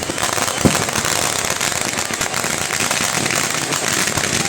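Kerala temple fireworks (vedikkettu): a dense, continuous crackle of many small bursts, with one heavier bang about two-thirds of a second in.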